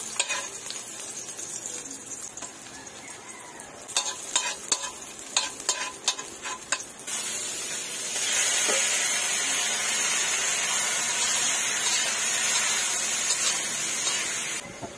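Sliced onions frying in a metal wok, with a metal spoon clicking and scraping against the pan. About seven seconds in, raw chicken pieces drop into the hot wok and a loud, steady sizzle takes over, stopping abruptly shortly before the end.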